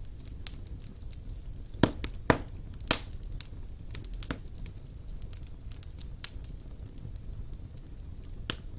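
Wood fire burning in a fireplace: irregular sharp crackles and pops over a low steady rumble of the flames, with three louder pops about two to three seconds in.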